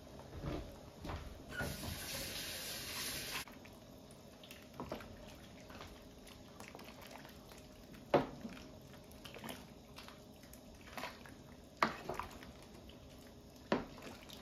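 Water running from a tap for about two seconds, then stopping abruptly, followed by a few scattered sharp clicks or drips.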